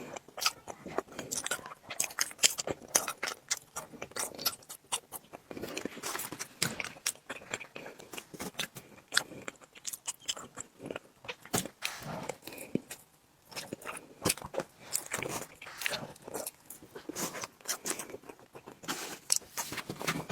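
Close-miked chewing and mouth sounds of someone eating tiramisu cake: a dense, irregular run of wet clicks and smacks.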